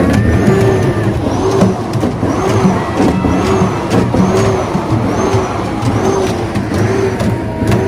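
Truck air horns honking together in a loud, continuous din, with long steady horn blasts. Over them, a sound that rises and falls in pitch repeats about once a second.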